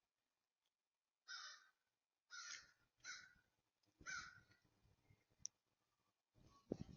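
Faint harsh bird calls, four in the first half, over a low rumble.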